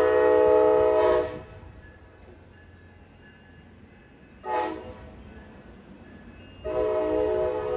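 Coaster commuter train's multi-note horn: a long blast ending about a second in, a short blast in the middle and another long blast starting near the end, the long-short-long close of a grade-crossing signal. A faint train rumble runs between the blasts.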